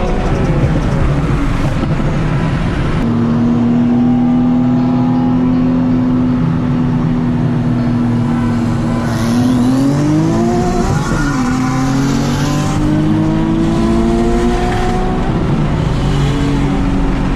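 Sports car engine under load on a run: its pitch drops at the start, holds nearly steady for several seconds, dips and recovers at about ten seconds in, then climbs slowly again.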